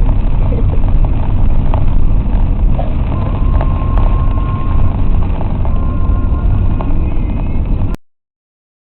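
Steady low rumble of road and engine noise inside a moving car's cabin. It cuts off suddenly about eight seconds in.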